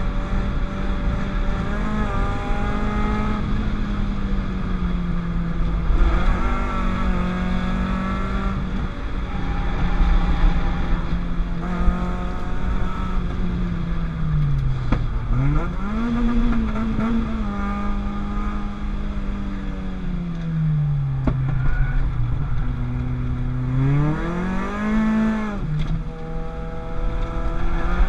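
Peugeot 205 GTI's transplanted 206 RC 2.0 16-valve four-cylinder engine at racing revs on a track lap, heard from on board. The revs climb and fall repeatedly through the gears, with deep drops in pitch about fifteen seconds in and again near the end as the car slows for corners, each followed by the engine pulling hard again.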